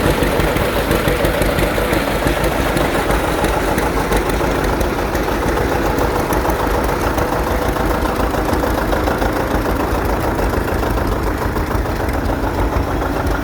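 John Deere 720's two-cylinder tractor engine running steadily at idle.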